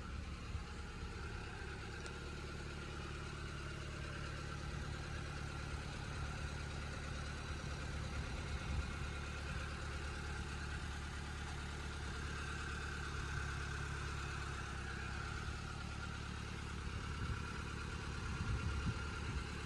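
A motor vehicle's engine running steadily at idle, a constant low hum that holds without change.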